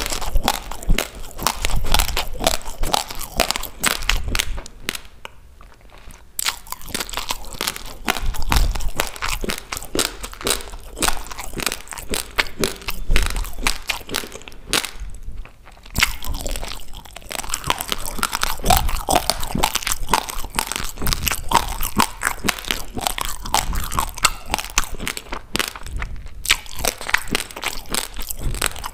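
Close-up crunching and chewing of dry raw rice grains: a dense run of small sharp cracks that pauses briefly three times.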